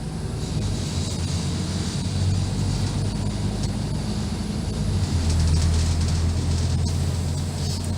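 Scania N230UD double-decker bus's five-cylinder diesel engine running, heard from inside the bus, with a steady low drone and a high hiss. The drone grows louder about five seconds in.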